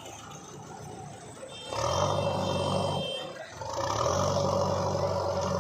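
Heavy diesel engine of a tractor or JCB revving hard under load in two long surges, with a short dip between them about halfway through.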